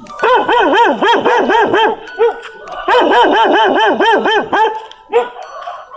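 A small dog barking rapidly in quick runs of short, high yaps, about five a second, with a pause between runs and a last single yap near the end.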